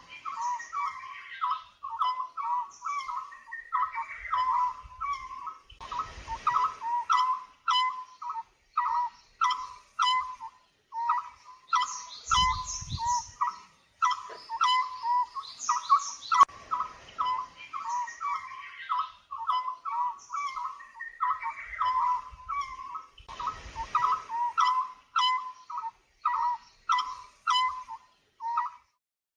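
Birds calling and singing: a rapid, unbroken stream of short chirps with higher twittering notes over them, falling silent near the end.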